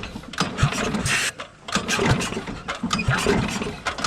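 Small gasoline engine on an old generator welder being pull-cranked: uneven thumps and knocks as it turns over without catching. It is starved of fuel, with no gas reaching the carburetor.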